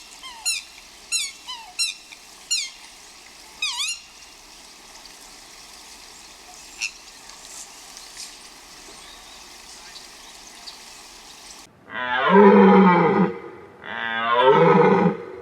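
Animal calls in two parts: a quick series of short, high-pitched, falling squeaky chirps, about two a second, stopping about 4 s in. After a quieter stretch, from about 12 s in come two long, loud, wavering calls.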